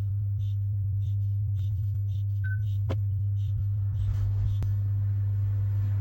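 Steady low electrical-sounding hum, with faint ticks repeating roughly every half second. A short high beep comes about two and a half seconds in, followed by a sharp click.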